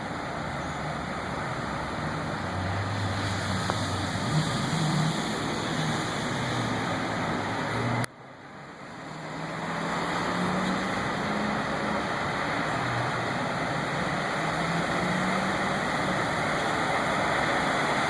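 A car engine running at low revs as the car creeps through deep floodwater, over a steady rushing noise. The whole sound drops out abruptly about eight seconds in and swells back up over the next two seconds.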